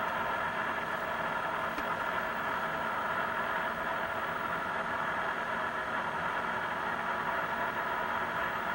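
Steady machinery hum and hiss of a submersible manoeuvring, with several steady tones and no change in level.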